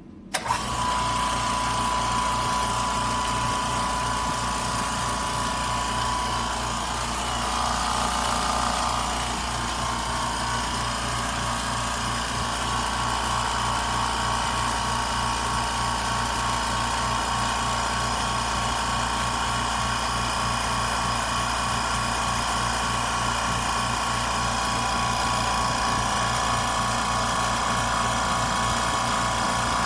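California Air Tools 10020C oil-free air compressor starting up suddenly and running steadily: a low hum with a constant whine over it.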